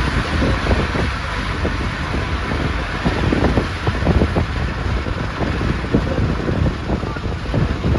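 A moving bus heard from inside the cabin: a steady low engine and road rumble with airy hiss, broken by frequent small rattles and knocks from the body.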